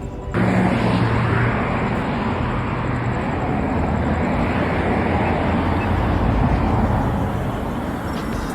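Steady rushing noise of a car on the road, tyres and engine under way, cutting in sharply just after the start with a low hum in the first second.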